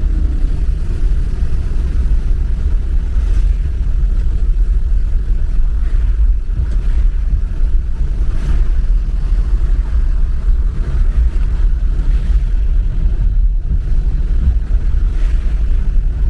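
Car driving: a steady low rumble of engine and road noise, with a few faint swells of hiss from tyres or passing traffic.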